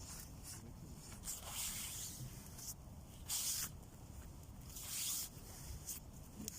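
Rustling and swishing: three short swishes about two, three and a half and five seconds in, with a few faint clicks between.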